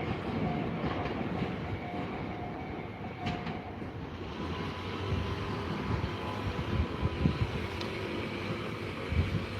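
Tobu Tojo Line train passing through a level crossing, its wheels clattering over the rail joints with a steady running rumble. A level-crossing warning bell rings about twice a second in the first few seconds, and a steady high whine comes in about halfway through.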